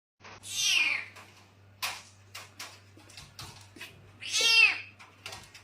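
A cat meowing twice, each meow a drawn-out cry that falls in pitch, with a few small clicks or taps between the meows.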